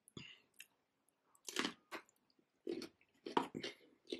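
Close-miked chewing of raw cucumber: several crisp, wet crunches, starting about a second and a half in.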